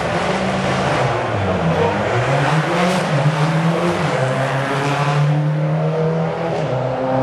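Rally car engine revving hard, its pitch dipping and climbing again twice, then holding high.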